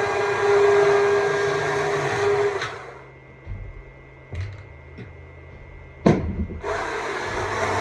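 Stihl MSA 200 C battery chainsaw running as it carves wood. Its steady motor whine stops abruptly a little under three seconds in as the trigger is let go, with no idle, leaving a few light knocks. About six seconds in the saw starts again at once and runs on.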